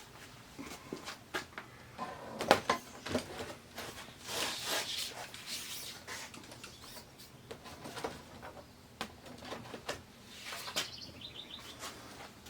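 Thin plastic diffuser and film sheets from an LCD TV's backlight being lifted off and handled: sharp clicks and knocks, the loudest about two and a half seconds in, a sliding rustle about four seconds in, and a brief run of high chirp-like squeaks near the end.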